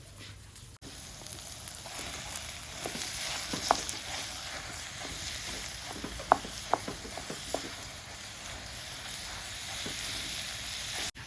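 Food frying in a pan over a wood fire: a steady sizzle with scattered sharp pops and crackles. It starts abruptly about a second in and cuts off near the end.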